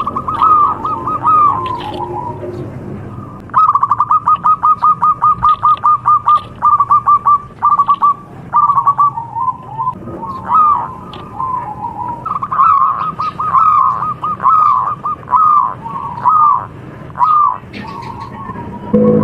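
Zebra dove (perkutut) singing: runs of rapid, evenly repeated staccato coos at a steady pitch, broken by slower single notes and short pauses.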